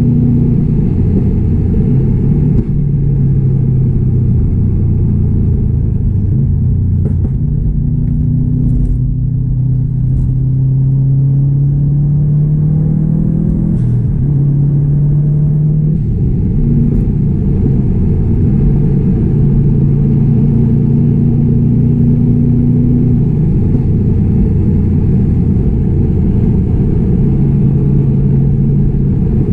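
Built 2016 Subaru WRX STI's turbocharged 2.5-litre flat-four engine and exhaust pulling steadily on the road, a deep low drone. About nine seconds in it climbs slowly in pitch under throttle, drops back suddenly around sixteen seconds, then settles to steady running.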